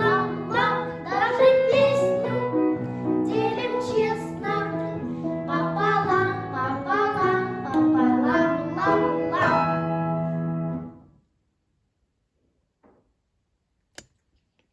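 Children singing a song over an instrumental backing track. The music stops about eleven seconds in, and what follows is near silence with one sharp click near the end.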